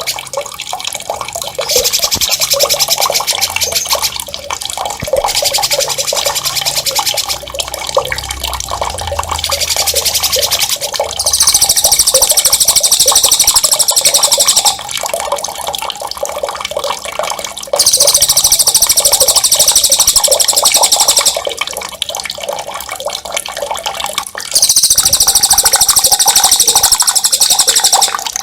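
Songbird master recording: loud, very rapid, high rolling trills, each held for two to four seconds and repeated about six times, over a steady background of running, splashing water.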